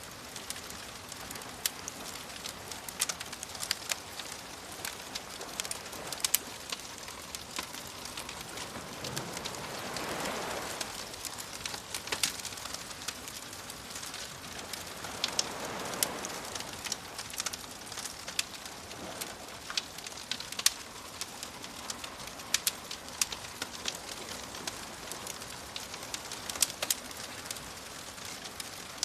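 Wood fire crackling with frequent sharp pops, over a soft steady wash of waves that swells twice, about ten and sixteen seconds in.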